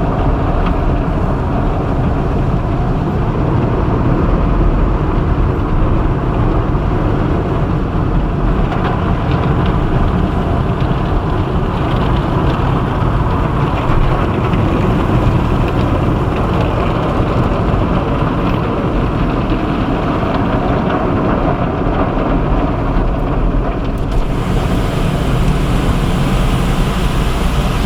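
Automatic tunnel car wash working over the car, heard from inside the cabin: a steady, dense rush of water and wash machinery with a heavy low rumble.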